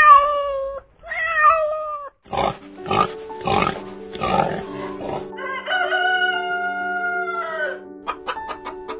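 A domestic cat meows twice, then a pig grunts about four times, then a rooster crows, one long held call, followed by a quick run of short hen clucks near the end. Soft background music plays under the pig and rooster sounds.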